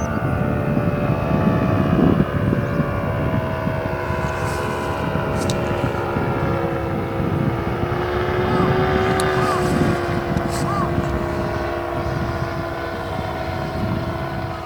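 Paramotor engine and propeller droning steadily overhead, its pitch drifting slightly up and down. A few short bird calls come through partway in.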